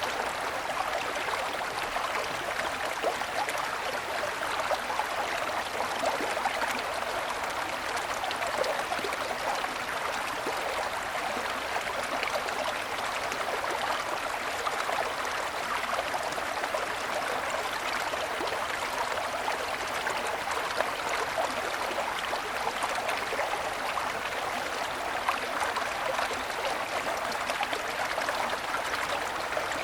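Small mountain stream running over snow-covered stones: a steady, even babbling and splashing with no change.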